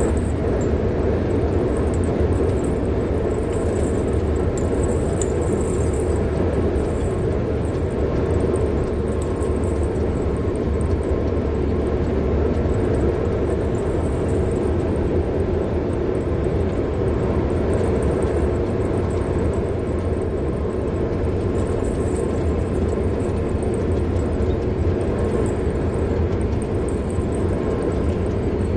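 A car driving along, with steady road and tyre noise over a low engine hum and no sudden events.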